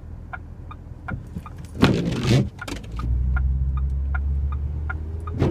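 Car turn signal ticking about three times a second inside the cabin over a low engine and road rumble, which grows louder about three seconds in as the car pulls away. A short rushing burst comes near two seconds in.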